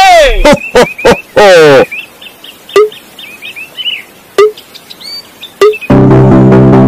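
Edited-in sound effects: a few loud squeaky swoops of pitch rising and falling, then a run of short, high, bird-like chirps with three sharp clicks. Music with a steady beat comes in near the end.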